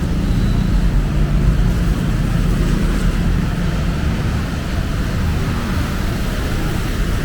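Street traffic: a vehicle engine running close by, a steady low rumble with no sharp sounds standing out.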